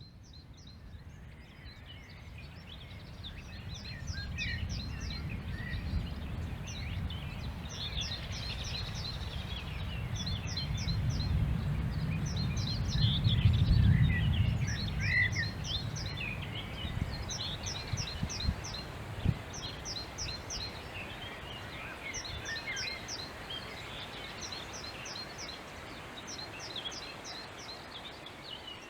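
Birds singing in repeated short bursts of quick high chirps, over a low rumble that swells to its loudest about halfway and then eases off. A couple of brief knocks come near two-thirds of the way in.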